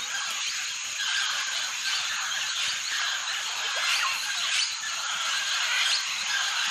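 Tropical forest ambience: a dense, steady chorus of calling insects with a constant high buzz. A few short falling whistled bird calls come about two-thirds of the way through.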